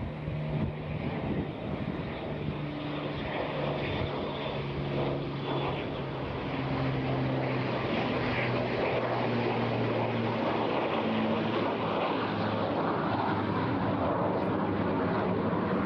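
Avro Lancaster's four Rolls-Royce Merlin piston engines droning on a flypast, several low engine notes over a rushing wash, growing louder.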